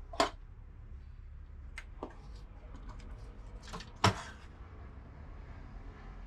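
Clicks and knocks of metal parts and tools being handled while a small-form-factor desktop PC is taken apart, with two sharper knocks, one just after the start and one about four seconds in.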